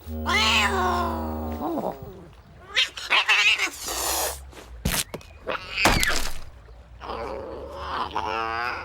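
Cartoon cat yowling and meowing in a string of pitched cries that glide up and down, with two sharp hits about five and six seconds in.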